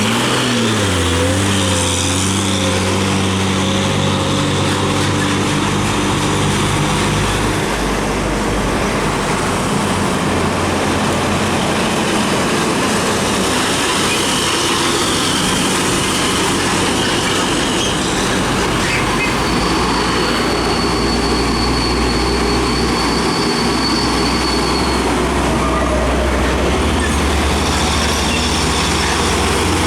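Heavy diesel trucks running along the highway, their engines and tyres making a continuous low rumble. One engine note falls in pitch near the start, then holds steady for several seconds. A thin high whine is heard partway through.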